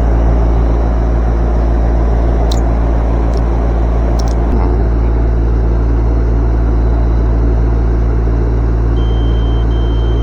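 A steady low machine hum with a few faint clicks; near the end a digital multimeter starts a steady high continuity beep as the compressor's terminals are tested for a short.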